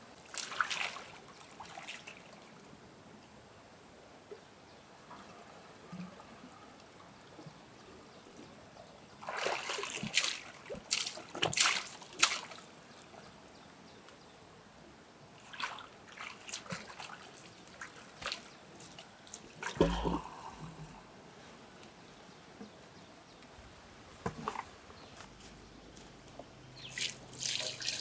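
Water splashing and sloshing in scattered short bursts, with quiet stretches between; the busiest splashing is about ten seconds in. There is a dull thump about twenty seconds in.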